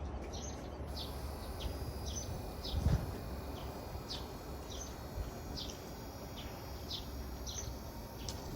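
A small bird chirping over and over, short high calls one to two a second, over a low steady rumble, with one dull thump about three seconds in.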